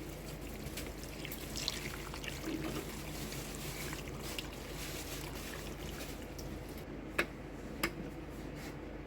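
Water pouring and trickling into a pot of chicken carcass and vegetable scraps to make stock, with two sharp knocks about seven and eight seconds in.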